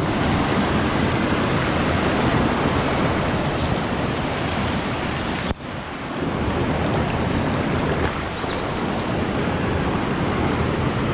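Rushing water of a waterfall stream, a dense even rush with no pauses, briefly cut off about five and a half seconds in before it resumes.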